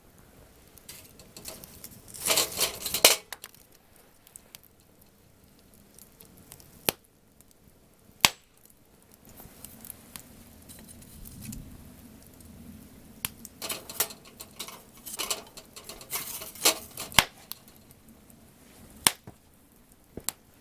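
Wood campfire burning with crackling and single sharp pops every few seconds. Two denser flurries of crackling and knocking come in, one a couple of seconds in and a longer one just past the middle.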